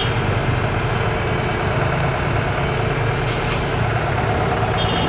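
Hitachi hydraulic excavator's diesel engine running steadily under load as it lifts a heavy drainage pipe.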